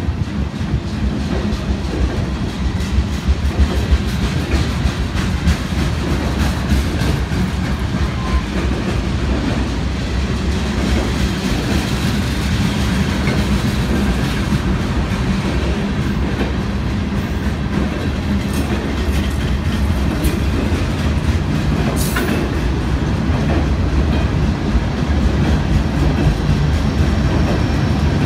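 Freight train of boxcars and refrigerated boxcars rolling past at close range: a steady rumble with the wheels clicking over rail joints, and one brief sharp high noise about three-quarters of the way through.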